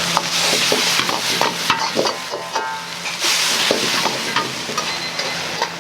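Stir-frying in a wok: food sizzling in hot oil while a metal ladle knocks and scrapes against the wok, with short metallic rings, over a steady low hum.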